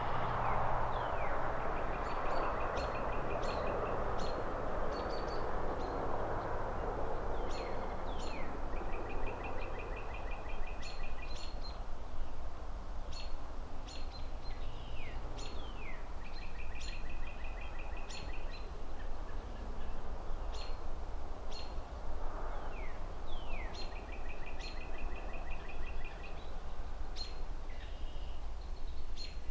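Songbirds calling over a steady low city traffic rumble: a rapid trill that recurs every few seconds, downward-sliding whistles and short high chirps. A broad whooshing swell, like a passing car or wind through trees, fills the first few seconds and comes back briefly later.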